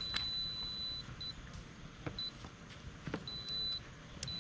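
An electric air fryer being set and restarted: a high-pitched electronic tone sounding on and off several times, the first lasting about a second and the rest short, with a few light clicks of the basket and buttons over a low fan hum.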